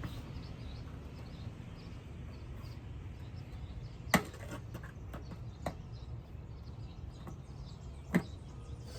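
Pliers and hand tools working plastic retaining clips: two sharp clicks about four seconds apart, with a fainter one between, over steady outdoor background hum with faint bird chirps.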